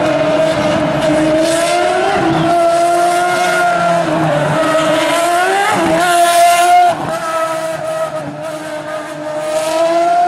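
Ferrari Formula 1 car engine running at high revs with a high, piercing note that wavers up and down. The pitch climbs sharply just before the middle, is at its loudest for about a second, then the sound drops in level.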